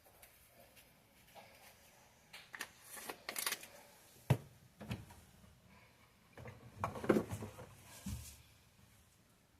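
Seasoning containers handled over raw chicken: scattered soft rustles, shakes and taps, with a sharp knock about four seconds in and a brief cluster of rustling around seven seconds.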